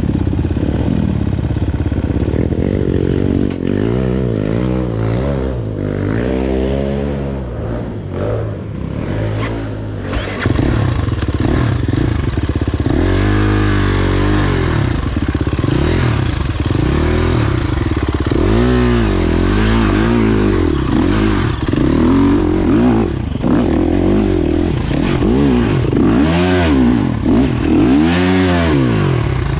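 Dirt bike engine revved up and down over and over, its pitch climbing and dropping every few seconds as the throttle is opened and closed.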